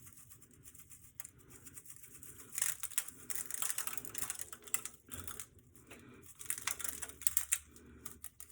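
Hands rubbing and working a seasoning rub into the skin of a raw bird, giving irregular scratchy, crackling rustles in short clusters, loudest about three seconds in and again near the end.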